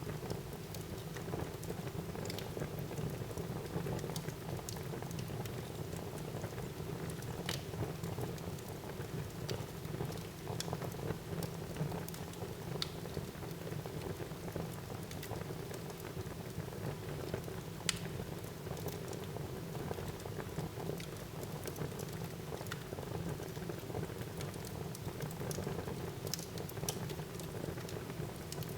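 Wood fire burning in a fireplace: a steady low rumble and hiss with scattered sharp crackles and pops, the loudest about 18 seconds in.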